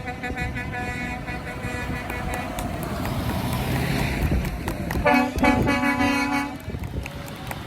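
Vehicle horns tooting over running engines: one horn held for about two and a half seconds, then a second, louder and lower horn for about a second and a half just after the five-second mark.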